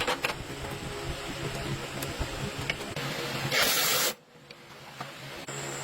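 A short, loud burst of hissing spray, about half a second long, cut off sharply, after a stretch of low clattering workshop noise with a few light clicks. A steady hum with a faint high whine starts near the end.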